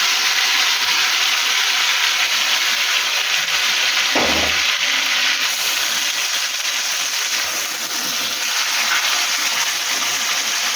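Chicken pieces sizzling steadily in hot olive oil in a pan, with one dull knock about four seconds in.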